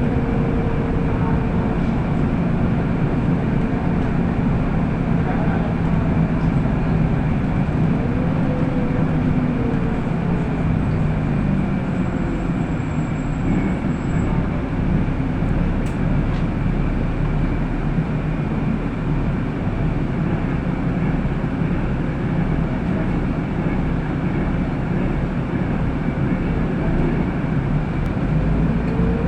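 City bus running along the road, heard from inside the passenger cabin: steady drive and road noise with a low hum, and a couple of short rising whines.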